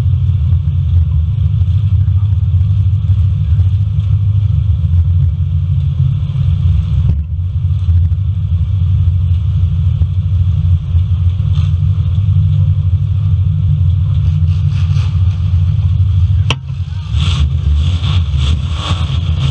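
Engines of full-size cars running and revving in a demolition derby: a heavy, steady low rumble. About sixteen and a half seconds in comes one sharp hit, followed by a rapid rattling clatter over the rumble.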